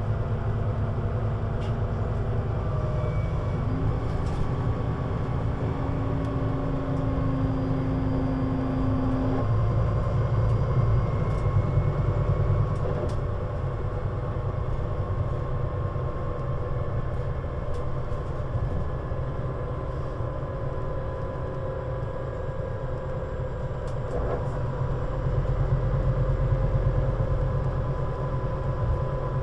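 Scania Citywide LFA (CN320UA 6x2/2) articulated low-floor bus running, a steady low engine drone with faint whining tones above it. A brief whine sounds for several seconds early on, and the drone swells near the end.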